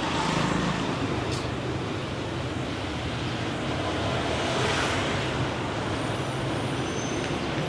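Street traffic: engines of passing vehicles running steadily, with a brief sharp knock about a second and a half in.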